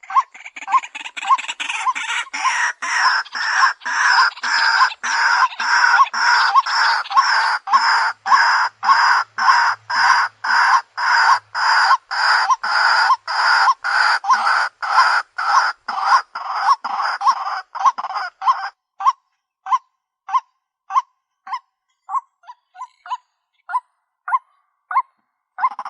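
White-breasted waterhen calling: a loud run of harsh, croaking notes repeated about twice a second. After about 18 s the calling thins to sparser, weaker single notes.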